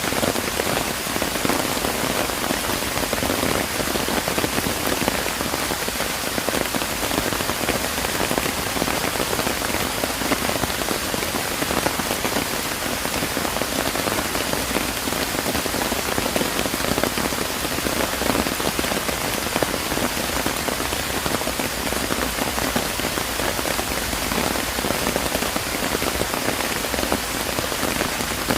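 Steady rain falling, a dense, even patter of drops hitting surfaces, with no let-up.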